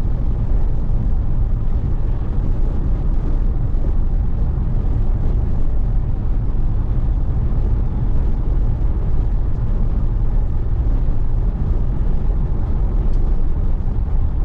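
Steady low rumble of a Pontiac Firebird driving along: engine and road noise heard from inside the car.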